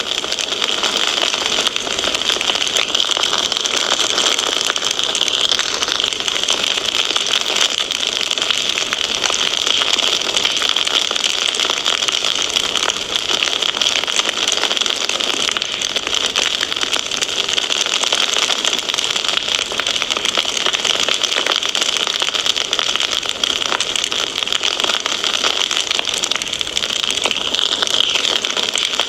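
Fire crackling steadily in a fireplace: a dense run of small snaps and pops over an even hiss.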